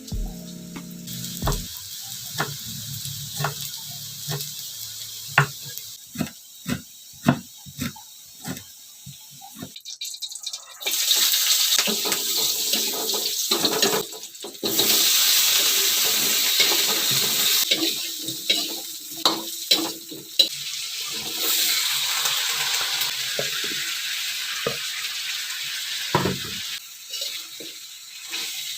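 Water from a kitchen tap running into a sink, starting abruptly and breaking off and on, with knocks and clinks of utensils being washed. Before the water starts there is a run of sharp separate knocks.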